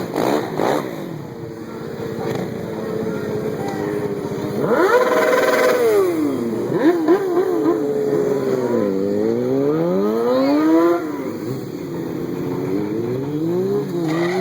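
Stunt bike engine revving hard again and again, its pitch sweeping up and falling back several times, with a quick burst of short blips about seven seconds in.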